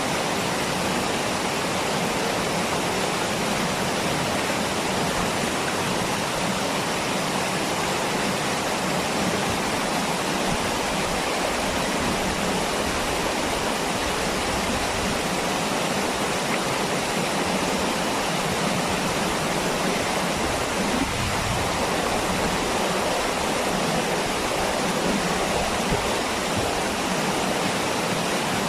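Waterfall: water falling and rushing with a steady, even sound.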